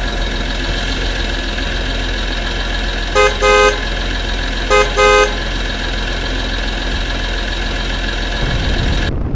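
A vehicle engine running steadily, with two double beeps of a horn, one about three seconds in and one about five seconds in. The sound cuts off just before the end.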